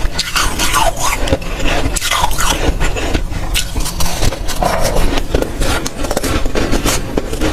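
Close-up crunching and chewing of dry, powdery freezer frost, a dense run of irregular crackly bites and squeaky compressions.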